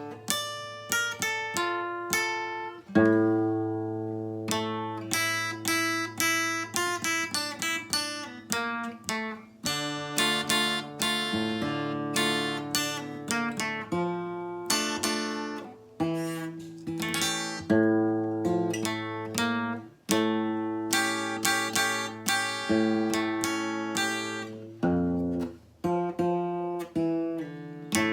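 Guitar playing a melody of plucked notes that each ring and die away, over held bass notes, with occasional strums.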